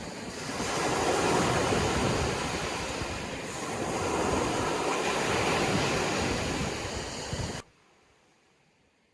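Sea waves surging and washing, swelling twice, then the sound cuts off suddenly near the end, leaving near silence.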